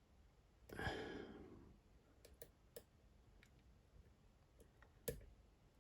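Faint, scattered clicks of a lock pick working the pins inside a Dom IX Twinstar lock, with one sharper click about five seconds in. About a second in there is a breathy sigh.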